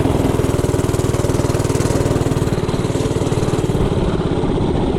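Mini bike's small engine running steadily with a rapid, even firing beat.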